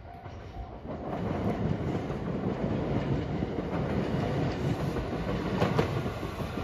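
JR West 227 series electric train approaching: the rumble of its wheels on the rails grows about a second in and holds steady, with a few sharp clacks near the end as it draws close.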